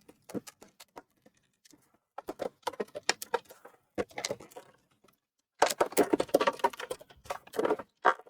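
Plastic clicks, taps and scraping from a PlayStation 4 Slim's case being handled and pried open, in two bouts of rapid clicking, the second and busier one starting a little past the middle.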